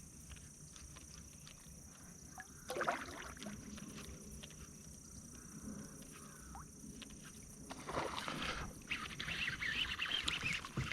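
Water splashing beside a kayak: one sudden splash a little under a third of the way in, then a longer stretch of splashing and thrashing at the surface over the last few seconds, fitting a hooked bass.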